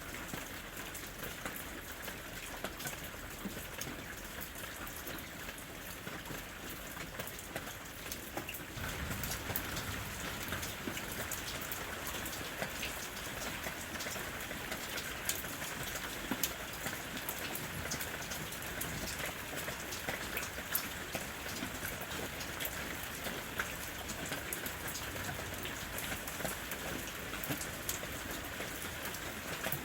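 Steady rain falling in a forest, with many separate drops pattering through a constant hiss; it grows slightly heavier about nine seconds in.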